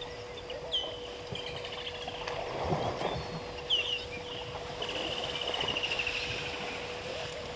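Wild birds calling: sharp falling chirps, then a fast trill of quick repeated notes about five seconds in. A brief rush of sloshing water from wading elephants comes about three seconds in, over a steady faint hum.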